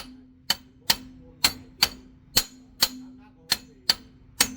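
Hammer blows on steel, about two a second, each with a short metallic ring, over a faint steady hum.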